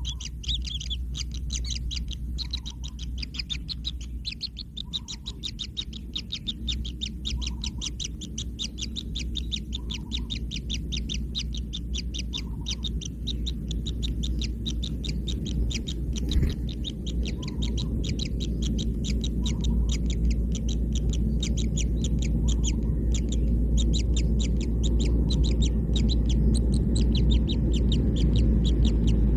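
Kingfisher chicks calling in a continuous run of short, high chirps, several a second. A steady low rumble underneath grows louder toward the end.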